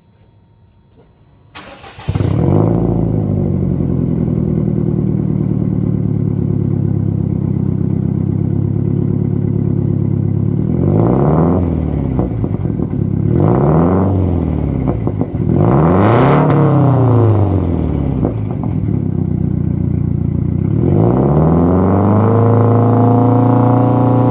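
Subaru WRX STI (GRB) turbocharged flat-four starting about two seconds in, exhaling through an unequal-length exhaust manifold and a full-titanium muffler. It settles from a high idle to a steady idle, takes three quick throttle blips, then gets a longer rev that climbs near the end. The titanium muffler gives the exhaust a somewhat higher-pitched tone.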